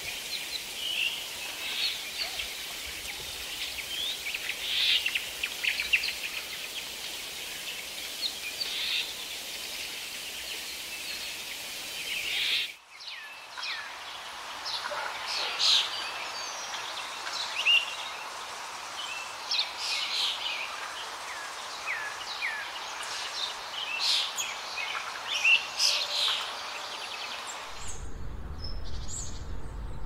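Wild birds chirping and calling, many short high chirps and quick rising whistles, over a steady background hiss. The background changes abruptly a little before halfway, and the chirping goes on.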